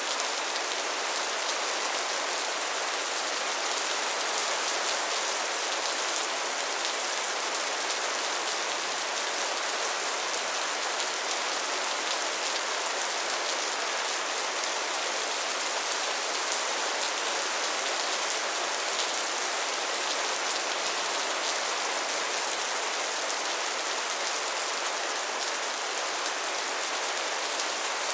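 Steady soft rain falling, an even hiss with fine patter of drops.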